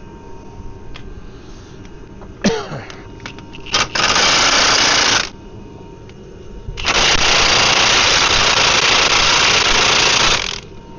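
Cordless impact wrench hammering in two bursts, a short one then a longer one of about four seconds, each cutting off abruptly; the tool's battery is flat. A metallic clank comes just before.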